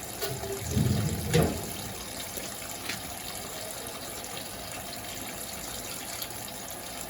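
Electrolux LTA15 top-load washing machine taking in water steadily, the stream running through the dispenser into the tub as the fabric softener is flushed in for the rinse. A brief low thump or two about a second in.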